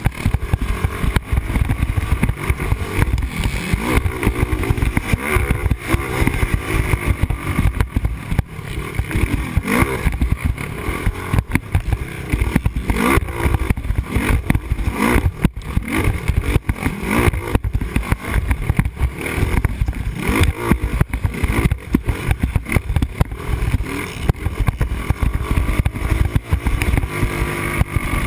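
Quad (ATV) engine, likely a Yamaha Raptor 250's single-cylinder four-stroke, revving up and down over and over as it accelerates and shifts around a motocross track, with heavy wind rumble on the helmet camera's microphone.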